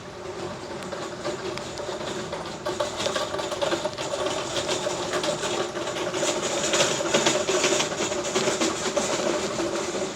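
Heavy rain pattering densely, growing louder over the first few seconds, over a steady mechanical hum.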